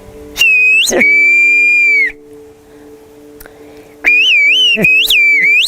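Whistled Turkish, the 'bird language': a loud human whistle, first one held note with a sharp upward flick at its start, then after a pause of about two seconds a quick run of whistled syllables rising and falling in pitch. A soft steady musical drone runs underneath.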